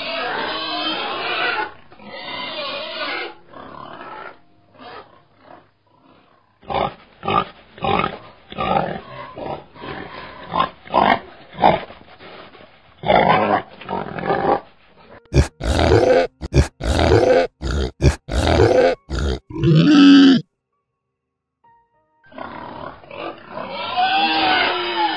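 Pigs grunting and squealing: a run of short grunts, then louder, sharper squeals that cut off abruptly about twenty seconds in.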